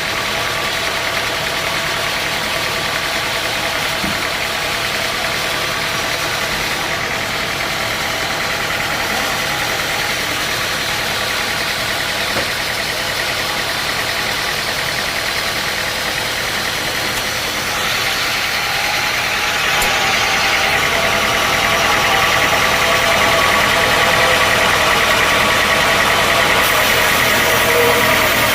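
Sawmill machinery running steadily, a loud mechanical hum with several steady tones. It grows louder and noisier about 18 to 20 seconds in.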